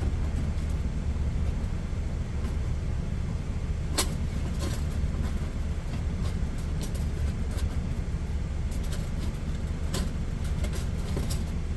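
Steady low rumble of a semi truck's engine idling, heard from inside the cab. Scattered light clicks and taps sit on top of it, the sharpest about four seconds in and a cluster near the end.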